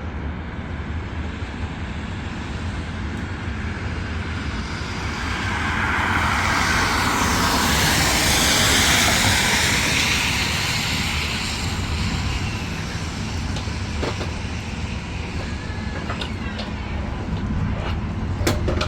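An aircraft passing overhead: a noisy rush that swells over several seconds, peaks about halfway through and then fades, over a steady low outdoor rumble.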